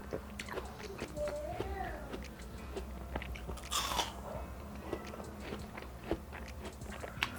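Close-up bites and chewing of juicy seedless watermelon, with many small wet mouth clicks and one louder crunching, slurping bite about four seconds in.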